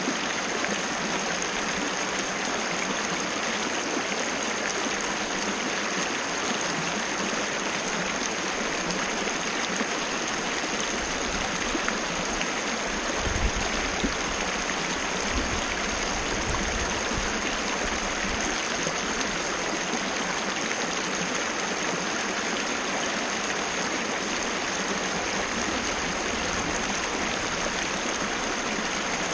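Waterfall, water rushing in a steady, unbroken wash.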